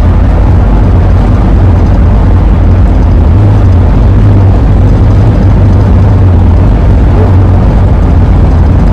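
Loud, steady low drone of wind and road noise inside the cabin of a 2001 Ford E-350 camper van at driving speed.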